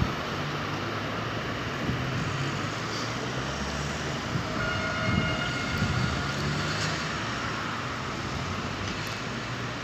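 Electric multiple unit train running away along the track, a steady rumble and rush that gets slightly quieter toward the end. About five seconds in there is a brief faint squeal.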